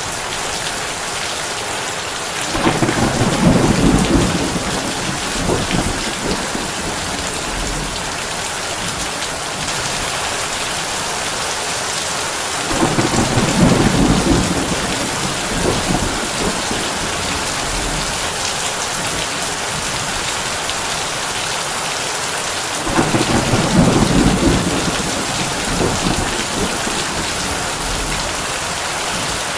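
Heavy rain on a tin roof, a steady hiss, broken three times by a low roll of thunder lasting a few seconds, about ten seconds apart.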